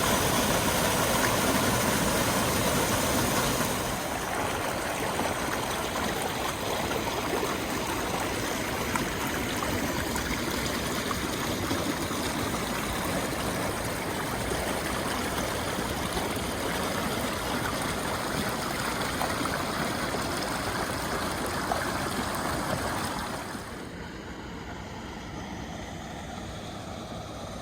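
Waterfall rushing over limestone ledges, a steady hiss of falling water. It gets quieter in two steps, about four seconds in and again near the end.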